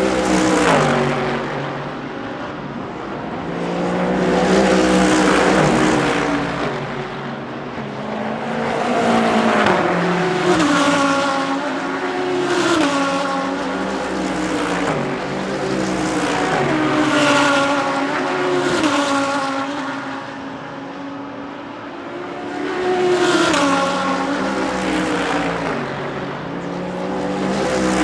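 DTM GT3 race cars going by at speed one after another, engines revving up and down through the gears, each pass swelling and fading, about six passes in all.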